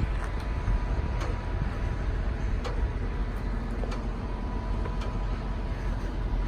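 2008 GMC 7500 bucket truck engine running steadily, with a thin steady high whine over the low rumble and a few sharp irregular ticks.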